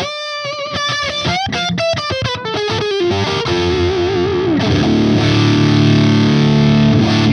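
Electric guitar played with heavy distortion through a tube-style amp: a run of notes stepping down in pitch, then a bent note with vibrato, then a held chord that rings out and stops suddenly at the end.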